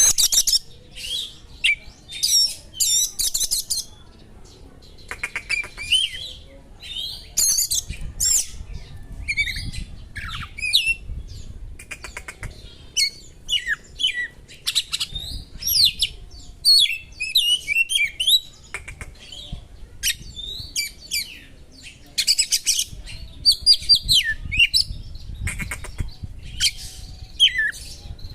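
Oriental magpie-robin (kacer) singing a fast, varied song of sharp high chirps, whistles and short trills in bursts with brief pauses, its phrases made up of imitated small-bird calls.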